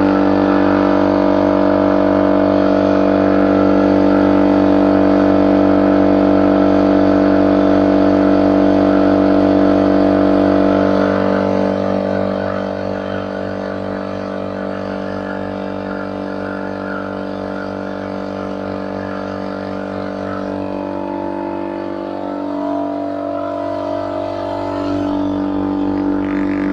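Rebuilt air compressor running steadily as it pumps up its new tank, made from a propane gas bottle, to test whether it comes up to pressure. Its hum drops somewhat in level about eleven seconds in, and it cuts off suddenly at the end.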